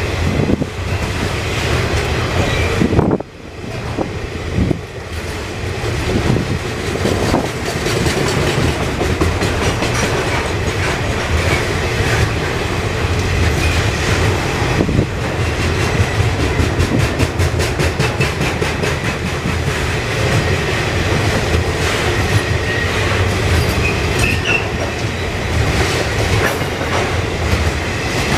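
A train running past on the rails: a steady rumble with wheels clicking over the rail joints in an even rhythm and a thin, high wheel squeal. The sound drops out briefly about three seconds in.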